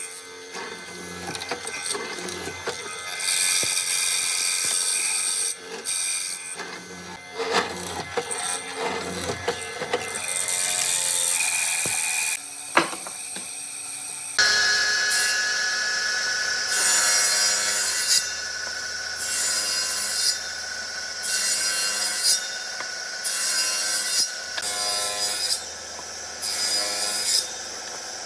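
Wood being worked by hand with an abrasive or cutting tool: scraping and knocks at first, then, after an abrupt change about halfway, regular rubbing strokes a little more than one a second.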